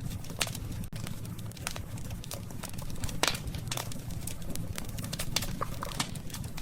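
Wood campfire burning, with irregular sharp crackles and snaps over a low steady rumble, and one louder pop about three seconds in.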